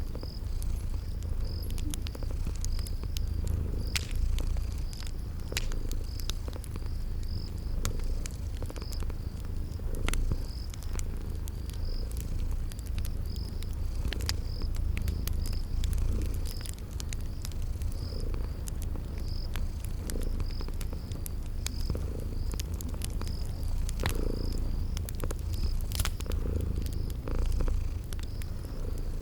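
A cat purring steadily in a continuous low rumble, with the sharp, irregular pops of a crackling wood fire and crickets chirping in an even rhythm.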